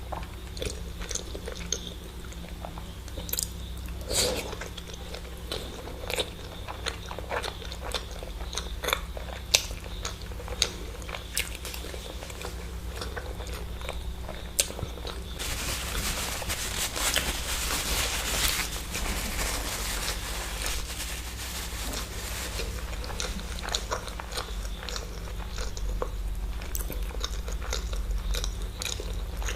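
Close-miked eating of eggs: chewing and biting with many small wet mouth clicks. Just past the middle comes a few seconds of rustling, hiss-like noise.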